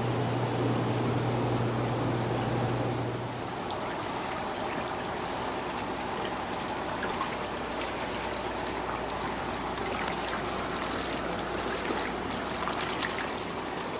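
Water running and trickling, a steady splashing flow, with a steady low hum under it that stops about three and a half seconds in.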